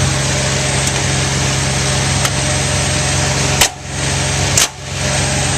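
Zanussi washing machine running with a steady low hum. A little past halfway it cuts out briefly twice, about a second apart, with a sharp click each time, then hums on.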